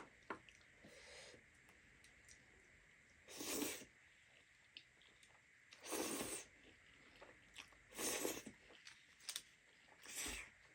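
A person eating: soft chewing and mouth clicks, broken by four louder breathy half-second bursts about two seconds apart, slurps or sharp breaths while eating spicy noodles.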